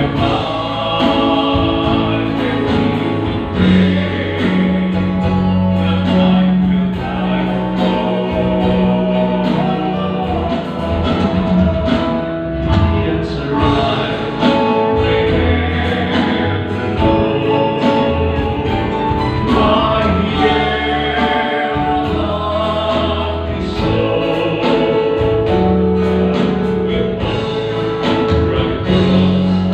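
A song: singing over instrumental accompaniment, with long held notes and a steady bass line.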